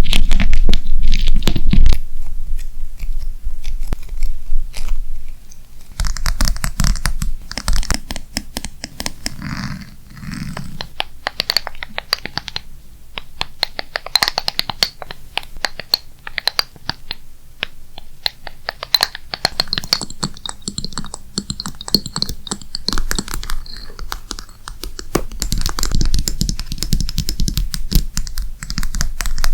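ASMR tapping and scratching on objects: many quick, irregular taps with soft scratching in between, and low rubbing or handling rumble at times.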